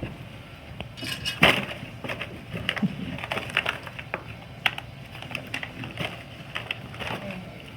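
Irregular knocks, clicks and clatter of a handmade model and small objects being handled, with one louder knock about a second and a half in.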